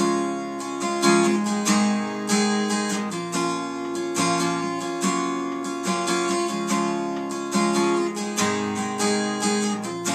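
Acoustic guitar strumming chords in a steady rhythm, an instrumental stretch of the song with no singing.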